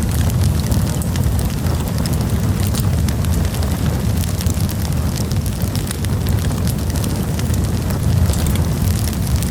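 Wood campfire burning, with frequent small crackles and pops over a steady low rumble of the flames.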